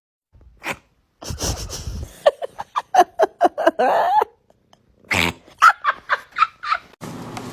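An animal, most likely a pet, making rapid runs of short pitched calls, about four or five a second, in two bursts separated by a brief pause.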